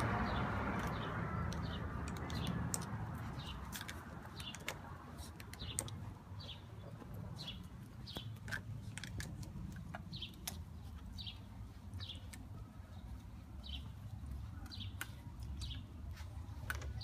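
A small bird chirping over and over, one short high chirp about every half second to second, with scattered light clicks and taps. A broad rushing noise fades away over the first two seconds.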